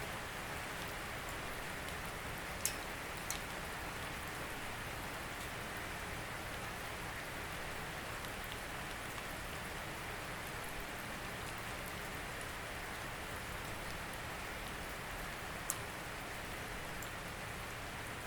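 Steady rain falling on a surface, with a few louder single drops hitting close by.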